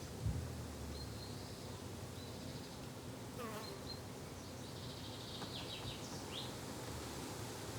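An insect buzzing steadily, a bee or fly, with birds chirping and trilling high up now and then. There is a brief low thump just after the start.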